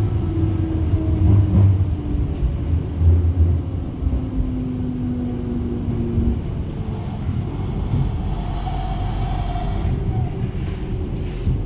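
Flexity low-floor tram riding along, heard from inside: a steady low rumble of the wheels on the rails, with whining tones that come and go, a lower one in the first half and a higher one later on.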